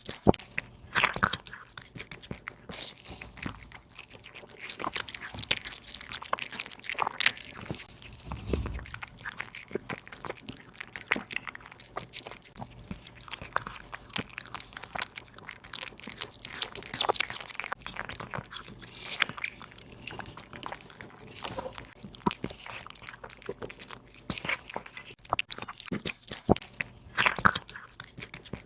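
A cat chewing and crunching its food, with many short crisp crunches coming irregularly.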